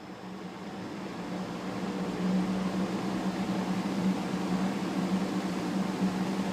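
Robbins and Myers electric exhaust fan spinning up, its air noise and motor hum growing louder over the first two seconds or so, then running steadily.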